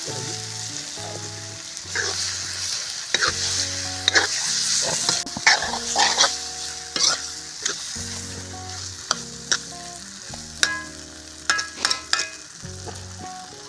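Chicken with onions and tomatoes frying in a pot, sizzling with a steady hiss, while a spoon stirs it and clicks and scrapes against the pot again and again.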